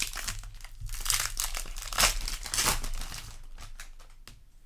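Foil booster pack wrapper crinkling as it is handled, a dense run of irregular crackles that fades away over the last second or so.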